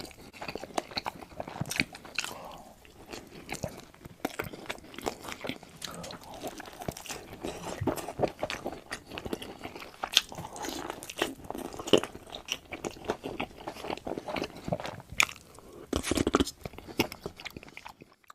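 A person biting into and chewing burger and fries close to the microphone: a run of crunches and moist mouth clicks that cuts off suddenly near the end.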